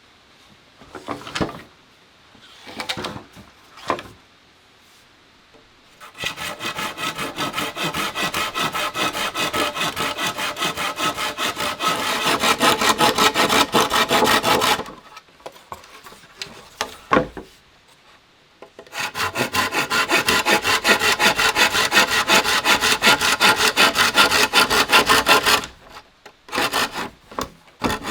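Hand saw cutting through wood in quick, even strokes, in two long runs with a pause between. A few short scrapes come before the first run.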